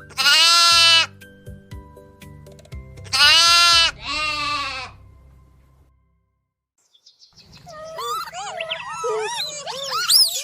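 Three loud bleats from a sheep or goat, the last two close together, over soft background music. After a brief silence, a different animal starts a rapid run of short, high, wavering calls.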